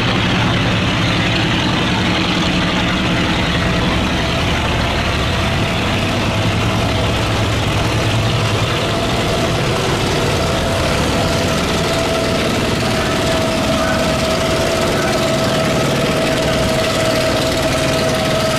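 Boat engines running steadily as boats pass through a canal sluice gate, with a low hum and a higher steady tone that grows stronger in the second half.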